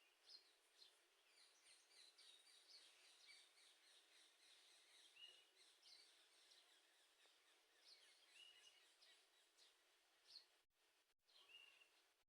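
Faint birdsong: many small birds chirping and twittering, with one bird repeating a short whistled call every few seconds.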